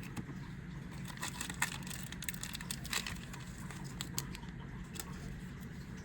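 Crinkling and light clicking from trading card booster packs and cards being handled, thickest between about one and three seconds in, over a steady low hum.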